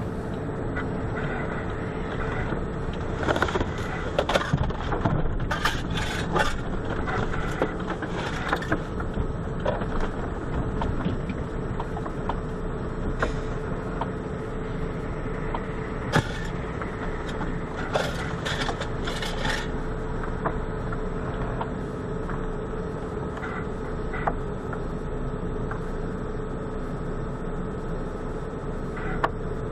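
Steady road and engine noise of a moving car with a constant hum, broken by bursts of sharp knocks and clatters, first from about three to nine seconds in and again from about sixteen to twenty seconds in.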